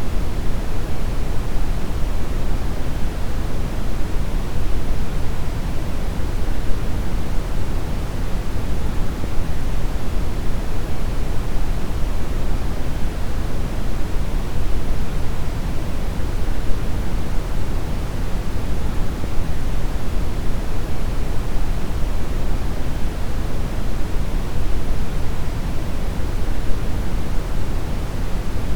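Steady synthetic brown noise: a deep, even rumbling hiss, heaviest in the bass and thinning toward the treble, with no changes.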